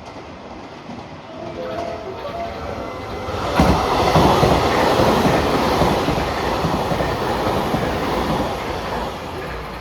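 A train passing close by: its noise builds, jumps sharply about three and a half seconds in as it draws level, stays loud for several seconds, then eases off near the end.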